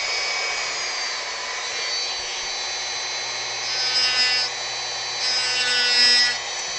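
Dremel rotary tool running with a steady high whine, its bit grinding into wood. It gets louder in two stretches, around four seconds in and again from about five to six seconds in.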